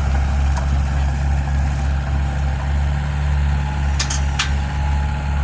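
A vehicle engine running steadily with an even low drone. A few short clicks come about four seconds in.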